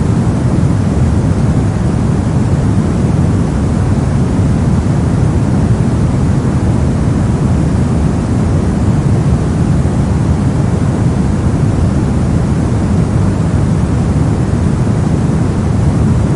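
Brown noise: a steady, unchanging rumble of random noise, deep and warm, with most of its energy in the low end and the highs rolled off.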